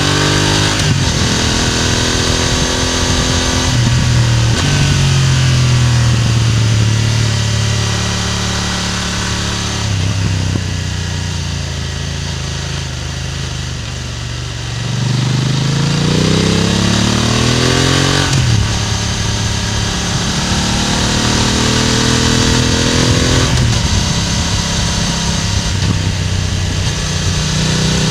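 BMW F900R's parallel-twin engine and exhaust under way, heard close at the exhaust: revs climb and drop with several gear changes. About halfway through it eases off and runs quieter, then revs up hard again.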